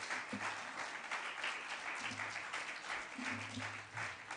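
A congregation applauding, a dense, even clapping throughout.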